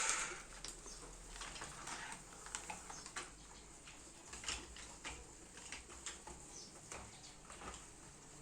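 Faint, scattered light taps and clicks, a few a second at most, with no voices.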